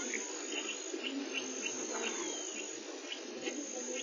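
Insects chirping in the bush: a steady high-pitched chorus with short repeated chirps a few times a second over a low background hiss.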